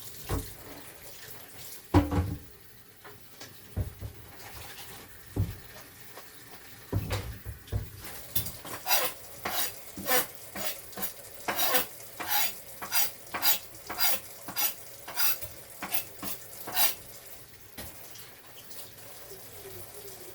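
Kitchen utensil and dish handling: a few separate knocks, then a run of quick scraping strokes about two a second that lasts some ten seconds before it stops.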